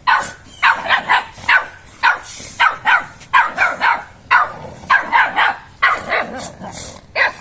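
American Bully dogs barking in quick, repeated short barks, about two to three a second, during rough play.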